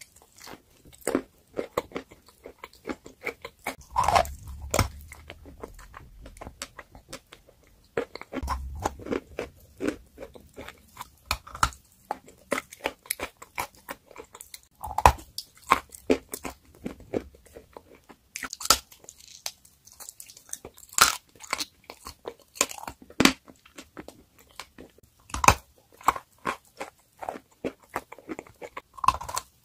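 Close-miked crunching and chewing as someone bites into and eats a dry, crumbly chalk block: a dense run of sharp crackling crunches, with two dull low thumps near the start.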